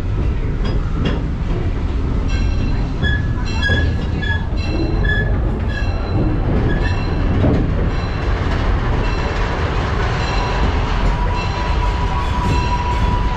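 Riding in an open passenger car of a narrow-gauge, coal-fired steam train: a steady low rumble of the car rolling on the track. About halfway through, a thin, steady high squeal from the wheels joins in and grows stronger.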